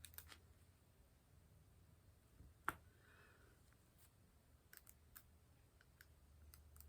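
Faint, scattered clicks and taps of a diamond-painting drill pen picking up and setting resin drills on the canvas, about a dozen irregular ticks with one louder click about two and a half seconds in, over a low hum.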